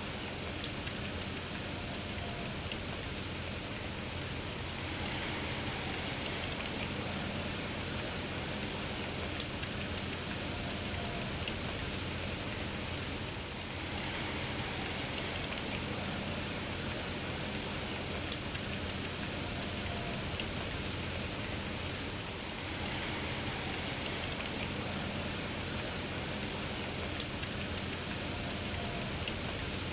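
Steady rain falling, with a sharp tick about every nine seconds that stands out as the loudest sound. The whole pattern repeats every nine seconds or so, as in a looped rain recording.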